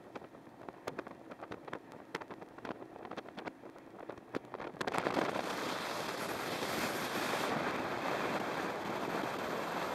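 Scattered sharp clicks and knocks, then about five seconds in a sudden loud, steady rush of wind and water noise from a tunnel race boat running at speed.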